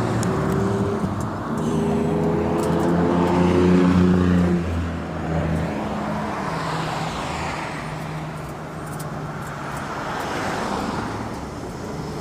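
Street traffic: a vehicle engine hums steadily through the first half and fades out about six seconds in, then cars pass by with a rising and falling tyre rush.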